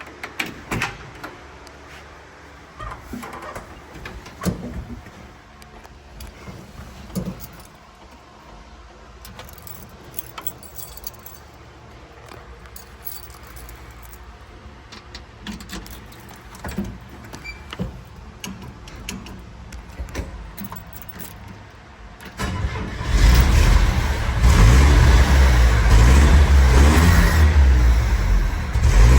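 Scattered clicks and rattles, then about 22 seconds in the 1965 International D900 pickup's engine cranks briefly and catches on a cold start, running loud and steady from then on.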